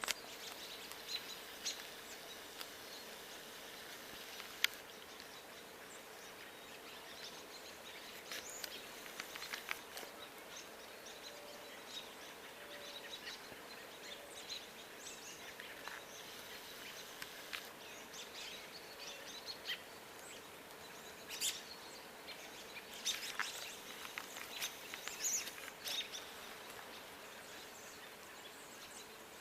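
Wild birds chirping and calling in short, scattered notes, busier about two-thirds of the way through, over a steady background hiss and faint hum.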